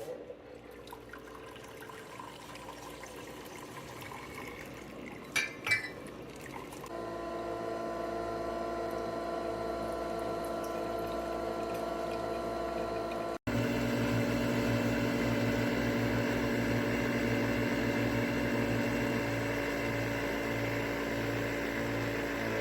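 Nespresso Vertuo Pop+ coffee machine brewing: a steady mechanical hum of its pump and motor, with liquid pouring into the cup. A couple of clicks come about five seconds in, and the hum gets louder and takes on a pulsing low note about halfway through.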